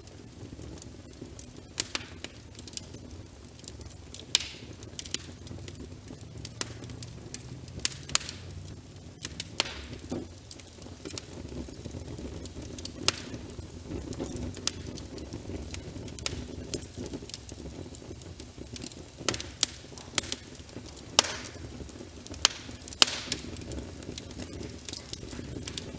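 Wood fire crackling in a fireplace, with irregular sharp pops and snaps over a steady low background of rain.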